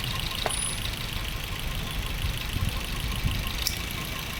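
Maruti Swift's four-cylinder petrol engine idling roughly and unevenly with a misfire, running on only some cylinders while its ignition coils are being swapped. A light click about half a second in.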